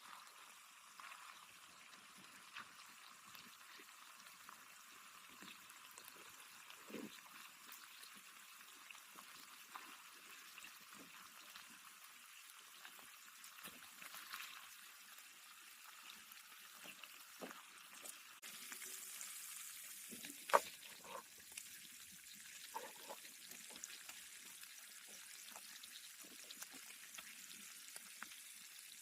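Bacon frying in a pan: a faint steady sizzle with scattered small crackles and pops, and one sharper click about two-thirds of the way through.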